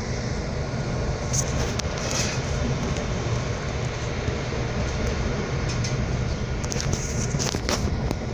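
Passenger train running at speed, heard from inside the carriage: a steady low rumble of wheels on the track, with a few brief clicks and rattles about two seconds in and again near the end.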